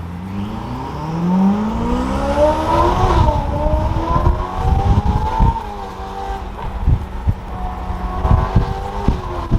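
Ferrari F8 Spider's twin-turbo V8 with a full titanium Boden exhaust accelerating hard, heard from the passenger seat. The engine note climbs for about three seconds, dips at a gear change and climbs again, then eases off about six seconds in and holds steadier, with low thumps through the second half.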